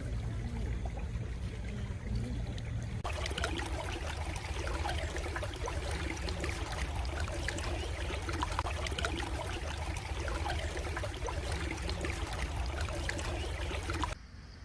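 Flowing stream water babbling over a low steady rumble. About three seconds in it changes abruptly to a louder, splashier stretch of running water, which cuts off suddenly near the end.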